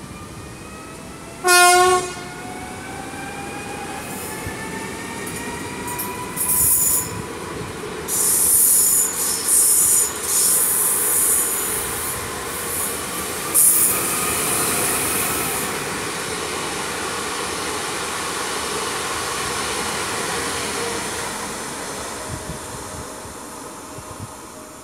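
A Newag Impuls electric multiple unit pulling out of the station. It gives one short horn blast about two seconds in, then its traction motors make a rising whine as it accelerates. High-pitched wheel squeal comes in a series of bursts in the middle, and the running noise fades as the train leaves.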